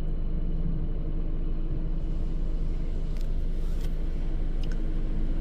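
Mark VII Aquajet XT rollover car wash running over the car, heard from inside the cabin as a steady low rumble and hum of pumps and spraying water, with a few faint ticks in the second half.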